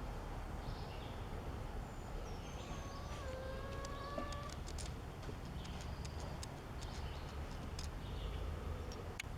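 Faint outdoor ambience: a steady low background rumble with birds calling. There is one drawn-out call about three seconds in, and scattered small high chirps.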